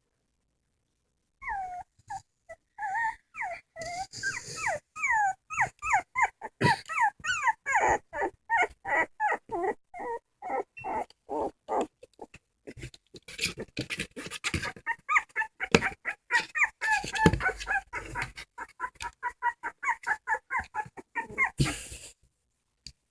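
Dogs whimpering and crying in a rapid string of short, high-pitched whines, several a second, starting about a second and a half in.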